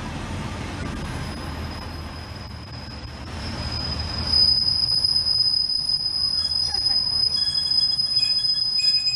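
Class 142 Pacer diesel railbus pulling slowly into a platform, rumbling low, with a high steady squeal setting in about a second in. About four seconds in the squeal changes to a lower, steady pitch that holds on as the train slows.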